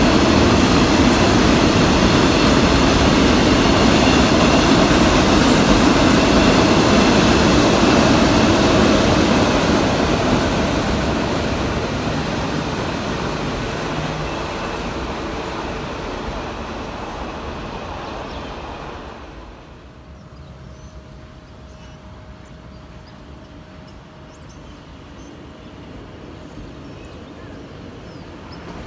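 KTM container freight train's wagons rolling past on the rails, loud at first, then fading as the train draws away. About two-thirds of the way through, the sound drops suddenly to a quiet background.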